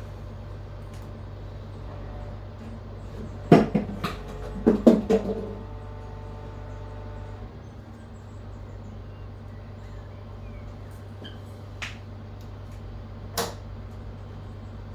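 Kitchen sink being set down into its silicone-lined worktop cut-out: a cluster of knocks a few seconds in, with a ringing tone that hangs on for a couple of seconds, then two more single knocks near the end. A steady low hum runs underneath.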